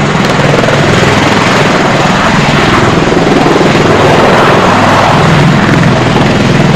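MV-22B Osprey tiltrotor's proprotors and turboshaft engines running loud, a broad rushing noise over a rapid, even blade chop, growing slightly louder about two-thirds of the way through.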